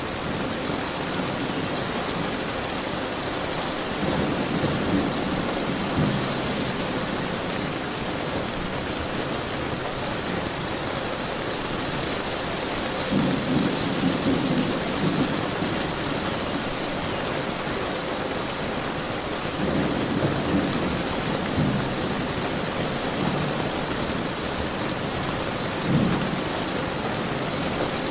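Steady heavy rain hissing, with rolls of thunder rumbling low four times: about four seconds in, around the middle, a little later, and briefly near the end.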